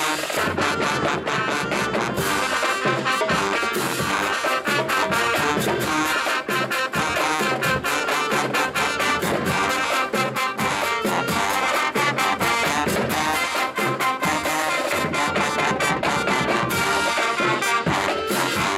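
College marching band playing: a loud brass section of trombones and trumpets over steady drum strikes.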